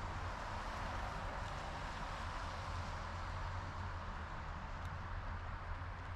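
Steady ride noise from a GoCycle GX electric bike on the move: an even rush of wind and tyre noise over a low hum.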